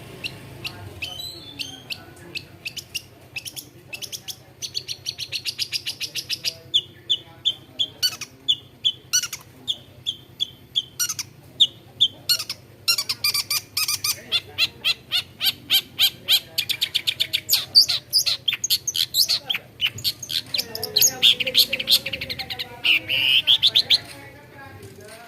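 Long-tailed shrike in full, continuous song: a varied run of sharp chips and fast series of repeated notes, with sweeping, rising notes near the end. Its song is known for imitating the calls of other birds.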